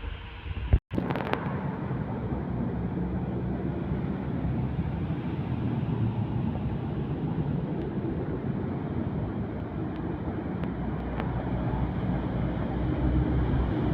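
Heavy truck's diesel engine running as it passes on the road, a steady low drone that grows slightly louder near the end. A sharp click and a split-second dropout about a second in.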